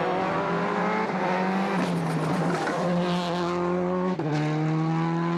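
Rally car engine at full throttle, its pitch climbing steadily as the car accelerates. About four seconds in there is a quick upshift that drops the pitch before it climbs again.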